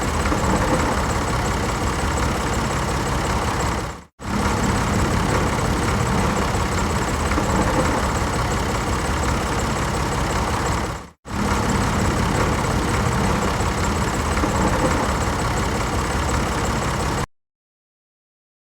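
Engine running steadily with an even, noisy rumble, broken off twice for a moment and cutting off abruptly a little before the end.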